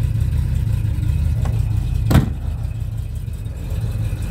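Rover 3500's V8 engine idling with a steady low rumble. A single sharp knock comes about two seconds in.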